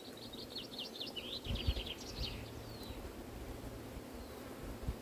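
A small bird singing a fast trill of short, falling high notes for the first two and a half seconds, over the low hum of honeybees from an open, crowded hive, with a few low knocks.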